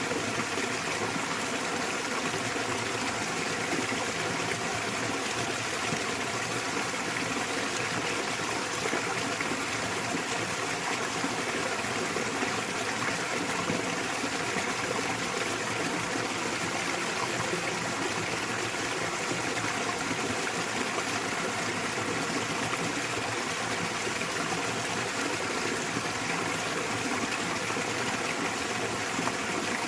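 Small waterfall splashing into a mountain stream: a steady, even rush of falling and running water with no breaks.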